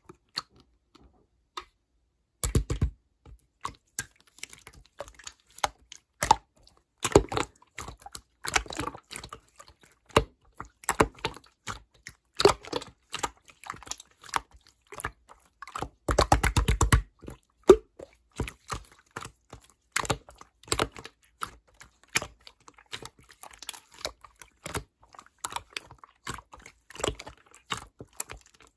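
Slime being squeezed and poked by hand, making a dense run of sticky clicks and small pops. Now and then it breaks into a short burst of very fast, even clicking.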